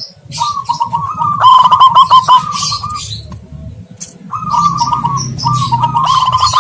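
Zebra doves (perkutut) cooing in phrases of rapid staccato notes, with a short pause about three seconds in before the cooing resumes. Small birds chirp high above, and a low rumble sits under the second phrase.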